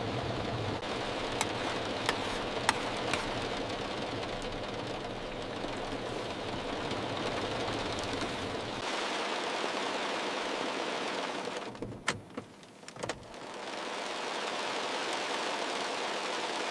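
Heavy rain on a car's body, heard from inside the vehicle: a steady hiss with a few sharp drop ticks. The hiss briefly falls away about twelve seconds in, with a couple of ticks, then returns.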